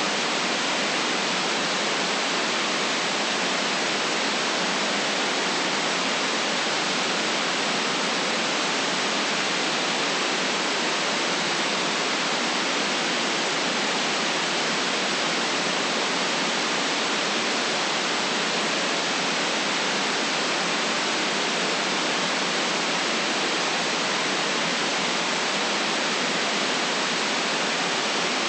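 Steady electronic white noise: an even hiss with no deep rumble.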